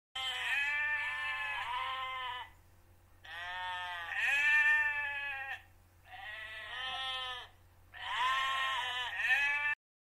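Sheep bleating: four long calls, each wavering in pitch, with short pauses between them.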